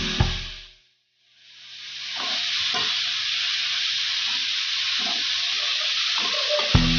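Sprouted moth beans (matki) sizzling as they fry in masala in a metal kadhai, stirred with a metal spatula that scrapes and knocks against the pan now and then. The sizzle fades in after a brief silence about a second in.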